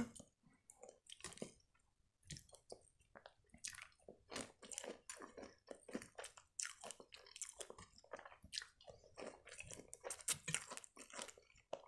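A person chewing a mouthful of food close to the microphone: faint, irregular clicks of chewing.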